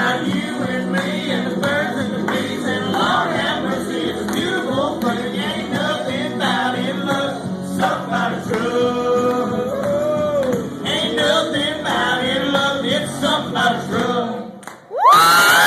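Country song with singing over a backing track. It drops out near the end, and a loud cry that rises and falls in pitch, like a whoop, starts right at the close.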